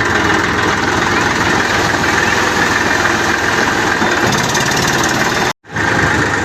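Eicher 380 tractor's diesel engine running steadily at idle, with a sudden brief break in the sound near the end.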